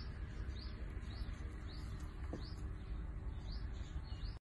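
A bird chirping over and over, a short high chirp about every half second, over a low steady rumble.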